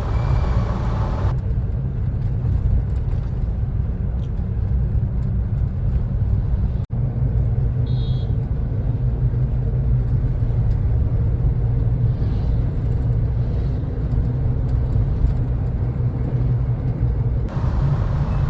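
Steady low rumble of a vehicle on the move: engine and road noise, with a momentary dropout about seven seconds in.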